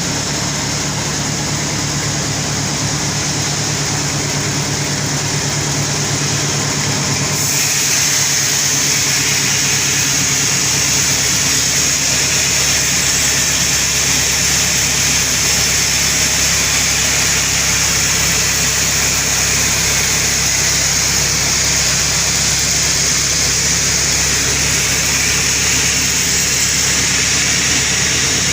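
Sawmill saw running with a steady machine hum. About seven seconds in, a loud high hiss sets in and holds as the blade cuts into an albasia log.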